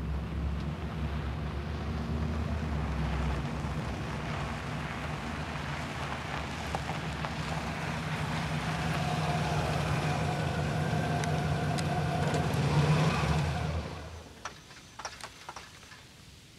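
Cadillac convertible's V8 engine running as the car drives, steady and growing louder toward the end. It stops abruptly near the end, leaving a few faint clicks.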